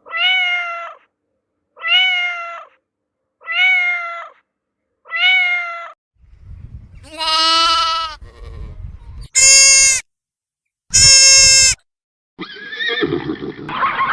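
A run of animal calls from several clips. First come four short, identical pitched calls, one about every 1.7 s. Then there are three longer, louder calls, and a denser, noisier stretch of animal sound near the end.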